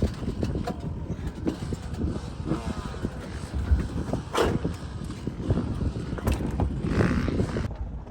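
A motor vehicle running, heard as a dense low rumble with scattered knocks and rattles.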